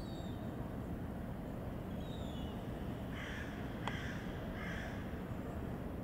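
Three harsh, caw-like bird calls about three seconds in, with a single sharp click between the first two and faint thin high chirps earlier, over a steady low rumble.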